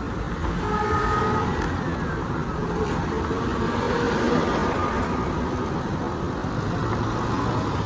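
Road traffic noise: vehicle engines running in slow, congested traffic, a steady low rumble. A short high tone about a second in slides down and fades.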